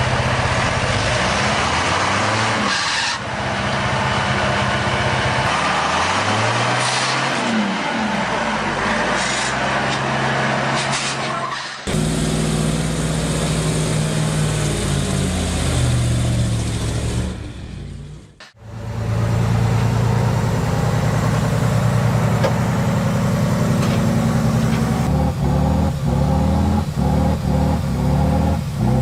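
Heavy truck engines running and revving under load, the pitch rising and falling. The sound changes abruptly twice as one clip cuts to the next.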